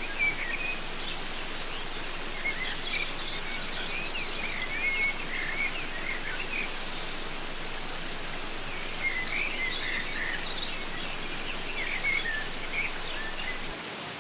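Waterfall rushing steadily, with wild birds chirping in bursts of short, quick calls over it; the water sound drops slightly just before the end.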